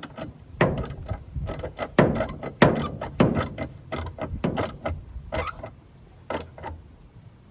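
Socket wrench clicking and clattering in quick strokes, about two or three a second, as the washing machine motor's mounting bolt is tightened to lock in the belt tension; the clicks thin out near the end.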